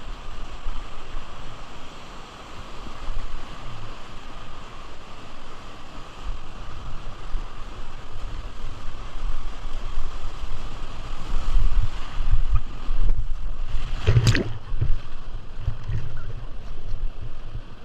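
Steady rush of river water with low wind buffeting on the microphone, and one sharp hit about fourteen seconds in.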